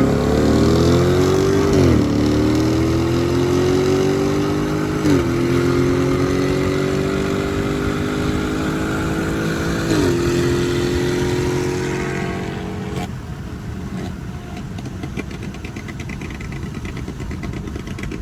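Tuned BMW 340i's turbocharged engine at full throttle, its note climbing through the gears with three quick upshifts, about 2, 5 and 10 seconds in. About 13 seconds in the throttle closes and the engine note drops away, leaving steady wind and road noise.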